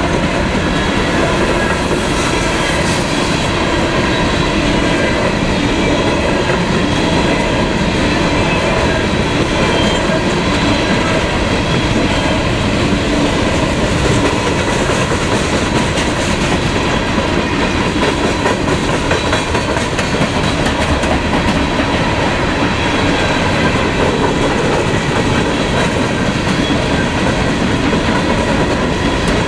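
Freight train cars rolling past with continuous wheel clatter on the rails and steady ringing metallic tones over it, without a break.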